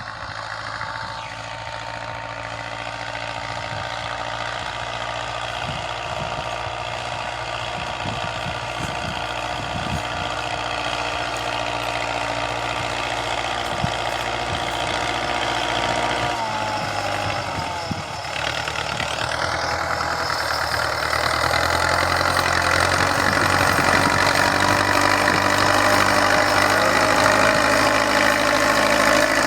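Tractor engine running steadily at idle; its note shifts a little over halfway through and it runs louder after that.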